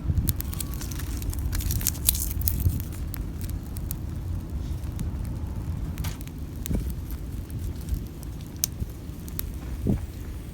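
Small fire of twigs crackling, with scattered sharp pops, over a steady low rumble of wind on the microphone.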